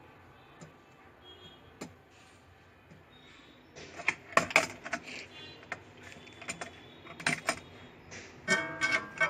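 Light clicks and taps of small metal tools on a circuit board while diodes are swapped, starting about four seconds in and coming in quick clusters. Background music with plucked strings comes in near the end.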